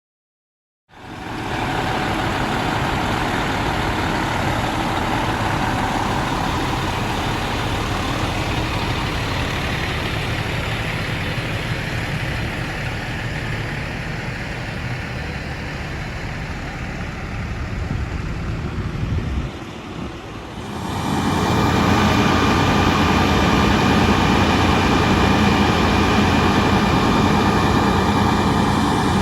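Diesel engine of a 2003 E-One 95-foot mid-mount tower ladder fire truck running steadily. About 20 seconds in the sound dips briefly, then comes back louder with a steady whine over the engine.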